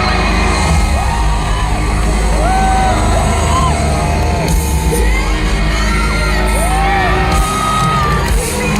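Live pop concert heard from inside the audience: loud amplified music over a heavy bass, with fans whooping and screaming over it and a few sharp bangs in the second half.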